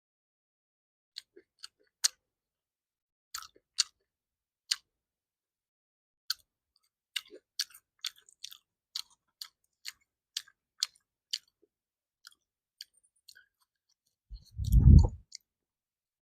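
Close-miked eating sounds: a string of sharp, wet mouth clicks and smacks from chewing, irregular at about one or two a second. Near the end a short, loud low thump.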